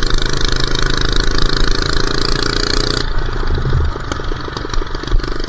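Minibike engine held at full throttle, running steadily, then the throttle is shut about three seconds in and the engine falls off, popping and backfiring with scattered sharp cracks as it slows.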